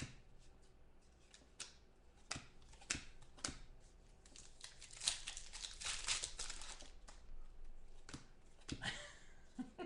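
Trading-card pack wrappers crinkling and tearing as packs are opened, with scattered light clicks and taps from handling the cards; the crinkling is thickest about five to six and a half seconds in.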